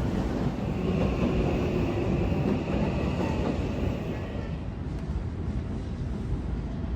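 Seibu Line electric train running past with a steady rumble of wheels on rails, and a faint high whine for a few seconds about a second in.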